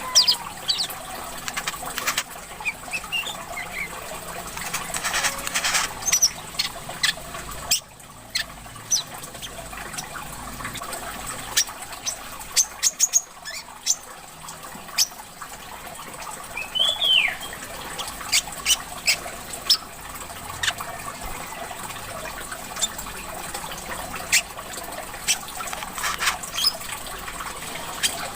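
Brown-throated sunbird (kolibri kelapa) calling: many sharp chips and a few short curved chirps. A steady trickle of running water lies underneath.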